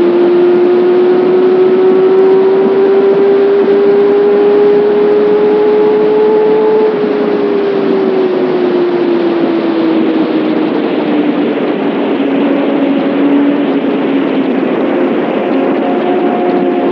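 Kawasaki Ninja ZX6R inline-four engine and exhaust under way, the engine note rising slowly as it pulls. About seven seconds in the throttle comes off: the sound drops in level and the note falls, then holds steady at a lower pitch.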